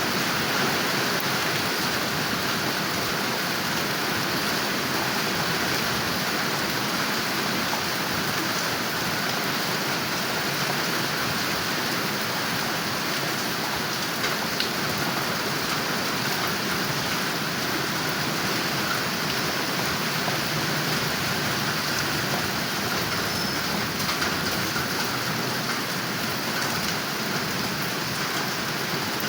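Steady rain falling, an even hiss of drops with no pauses or changes.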